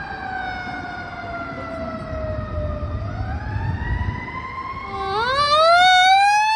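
Fire engine sirens: one siren's wail slides slowly down in pitch, then climbs back up. About five seconds in, a second, louder siren wail sweeps sharply upward, with a low rumble underneath.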